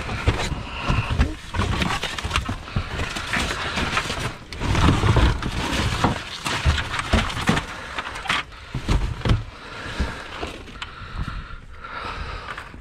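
Scrap metal being handled and shoved around while someone tries to fit a long piece in: a run of clanks, knocks and scraping, heaviest about five seconds in.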